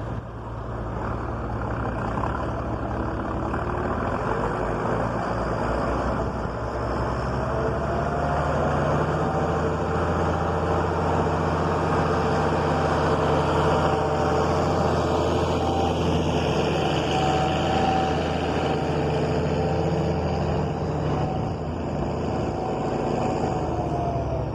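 Tractor engine running steadily under load, heard from inside the cab. It builds up over the first several seconds and then holds, with a thin whine above it.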